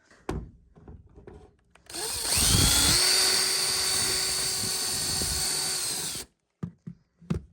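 Electric drill starting with a rising whine about two seconds in, then running steadily for about four seconds before stopping abruptly, while drilling mounting holes for a tow hitch bracket. A few short knocks come before and after it.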